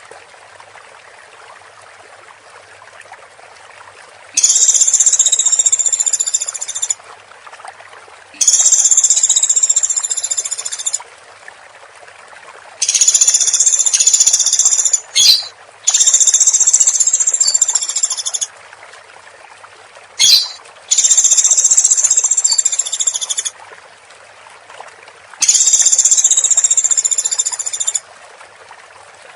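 Woodpecker giving a series of rapid, high, rattling calls, each lasting about two to three seconds and repeated roughly every four seconds, with two short sharp notes between them, over a steady background hiss.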